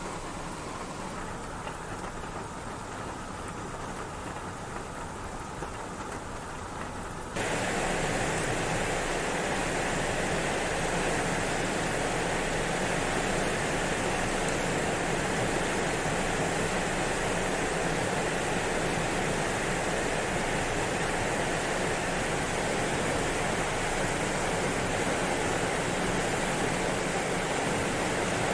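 Rushing of a swollen river running high and fast after typhoon rains, a steady noise of water that jumps suddenly louder about seven seconds in.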